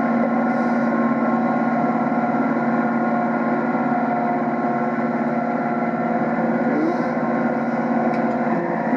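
ACO 460 articulated tractor's engine running at full throttle under heavy load while ripping, a steady loud drone with whining tones from the engine and Twin Disc powershift drivetrain.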